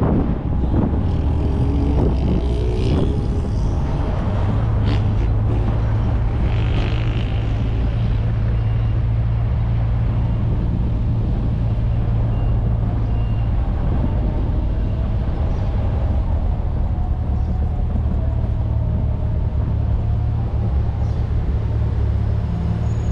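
1994 VW Gol's 1.6 L CHT engine cruising at a steady highway speed, a constant low hum under tyre and wind noise picked up by an external microphone. A few brief louder rushes of noise come a few seconds in.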